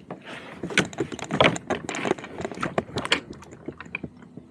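A rapid, irregular string of clicks, knocks and rattles with short rushes of noise, from hard objects handled close to the microphone.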